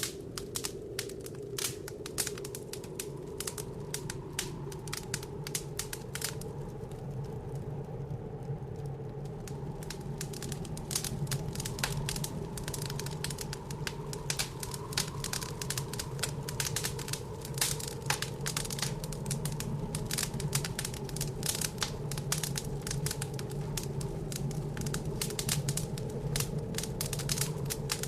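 Wood fire in a fireplace crackling and popping in dense irregular clicks, thinning briefly about seven seconds in, over a steady low blizzard wind.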